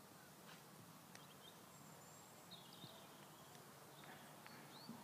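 Near silence: faint background hiss with a few faint, scattered bird chirps.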